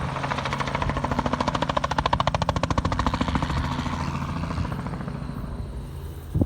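Helicopter flying past, its rapid rotor chop growing louder and then fading, with a short thump near the end.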